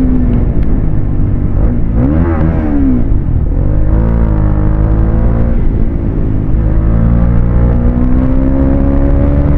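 Motorcycle engine running under way with wind noise, its pitch briefly rising and falling about two seconds in and climbing slowly near the end.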